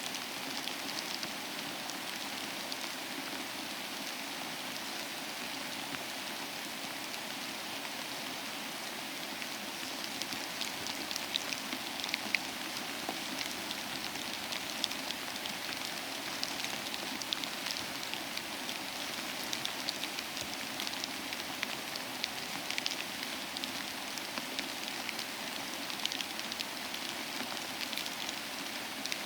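Steady rain falling, an even hiss with many close, sharp drops pattering on a surface.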